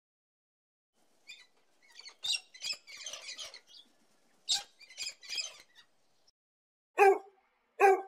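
Rainbow lorikeet chattering: a quick string of high, shrill chirps and screeches from about a second in until about six seconds. Near the end come two short, louder yaps from a Pomeranian puppy, under a second apart.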